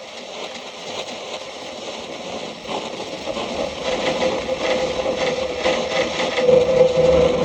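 Noise music performance: a dense crackling, scraping texture that builds steadily in loudness, with a held drone tone growing out of it and a low rumble coming in near the end.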